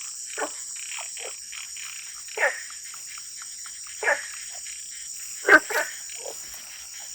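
Wild frogs calling after heavy rain: short, loud croaks every second or so, the loudest a close pair near the end, over a steady high-pitched drone.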